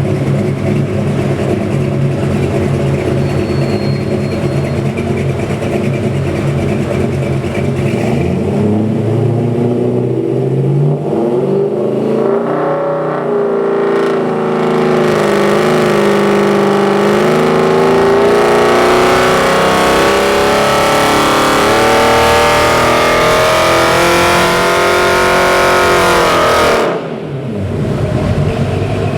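383 cubic-inch small-block Chevy stroker V8 running on an engine dyno. It runs at a steady speed, then from about fourteen seconds in it pulls louder with the revs climbing steadily for about twelve seconds. Near the end the throttle closes and the revs fall away suddenly.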